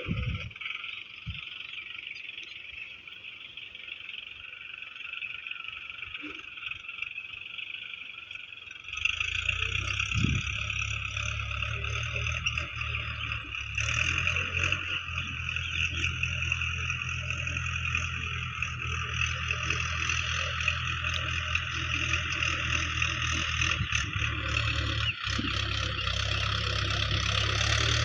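A steady chorus of frogs croaking. About nine seconds in, a tractor's diesel engine starts and keeps running at idle, getting slowly louder toward the end.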